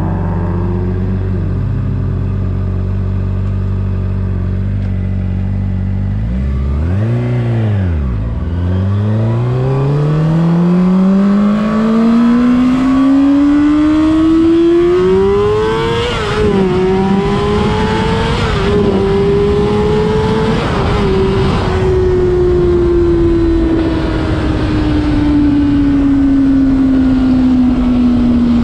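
Honda CBR600RR's inline-four engine: a steady low-rev note, a quick rev blip about a quarter of the way in, then a long pull with the revs climbing steadily, a few brief dips near the top, and the revs slowly falling off over the last few seconds.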